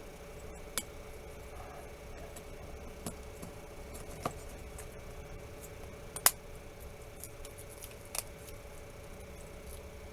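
A few small, sharp clicks and taps of phone parts being handled as the motherboard of an LG K373 smartphone is set back into its frame, the loudest about six seconds in, over a faint steady hum.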